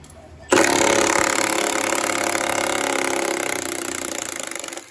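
Electric drill running under load, boring into the engine's metal, starting abruptly about half a second in with a steady whine and cutting off near the end.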